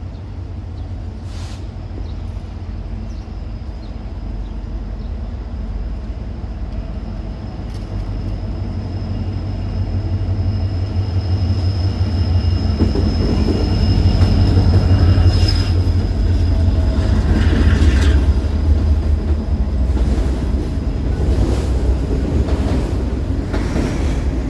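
Norfolk Southern autorack freight led by an SD70M-2 diesel locomotive passing, its low engine and wheel rumble building as it approaches and staying loud as the cars roll by, with a thin steady high squeal from the wheels.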